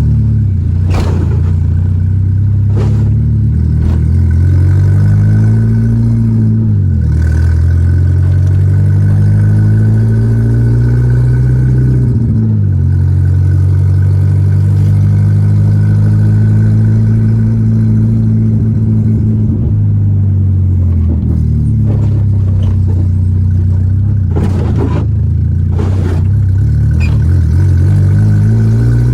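Volkswagen Gol G4 Rallye's four-cylinder engine driving through the gears: the engine note climbs and drops several times with gear changes and holds steady in between. A few brief knocks are heard.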